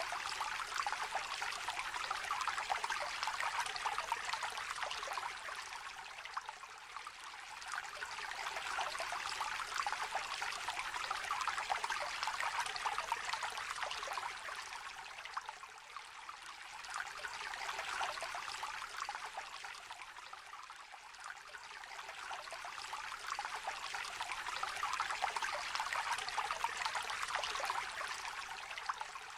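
Small stream trickling and babbling over stones, a steady splashing that swells and eases every few seconds.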